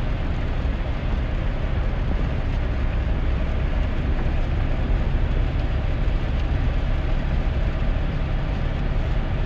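Steady road noise inside the cab of a 2001 GMC Sierra pickup driving in the rain: a low rumble with an even hiss of tyres and rain on wet pavement.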